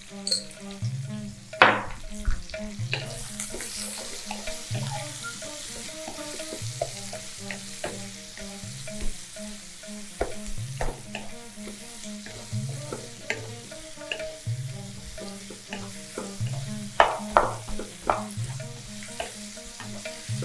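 Sliced onions sizzling in hot oil in a wok while a wooden spatula stirs them, scraping and knocking against the pan. There are sharp knocks about two seconds in and a few more close together near the end.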